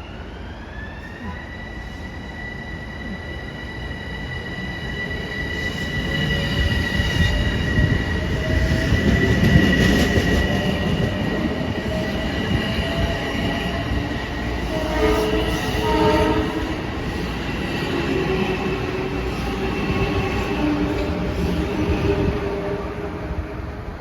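Metro-North electric commuter train moving through the station: a rumble of wheels on rail under a high-pitched squealing whine that rises in the first second and then holds steady. It grows louder to a peak about ten seconds in.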